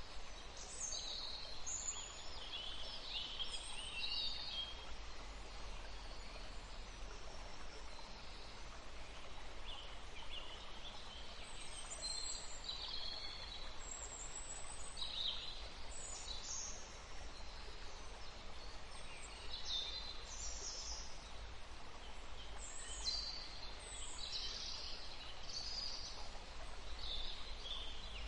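Several songbirds chirping and singing, short high calls and trills overlapping at irregular intervals, over a steady low rumble.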